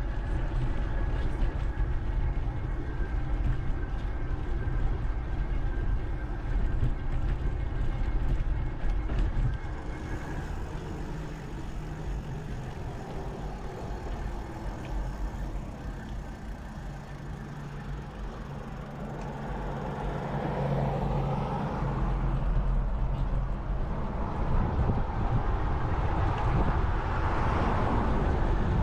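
Riding noise on an action camera: wind rumbling across the microphone along with trail noise, with a faint steady hum in the first part. The rush grows louder again in the last third.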